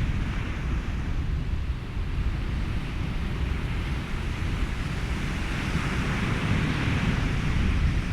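Ocean surf mixed with wind and steady white noise: a continuous low rumbling wash, with a wave swelling in over the last few seconds.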